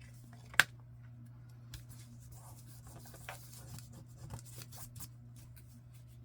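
Paper being handled and rubbed on a work surface: a sharp tap about half a second in, then scattered small ticks and rustles, over a faint steady hum.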